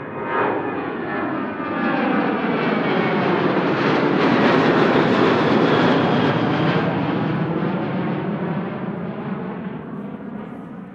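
Jet airliner passing close by. Its engine noise swells to a peak about halfway through, then fades away.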